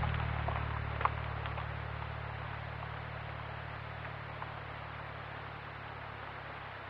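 A low, steady hum of stacked deep tones, like an idling engine, that slowly fades away, with a faint click about a second in.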